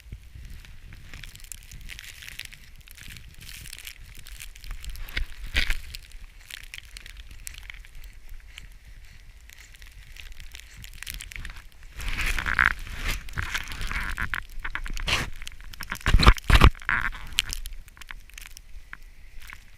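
Footsteps crunching through deep snow, a rapid run of crackling crunches that grows louder and denser about twelve seconds in, with the heaviest crunches a few seconds later.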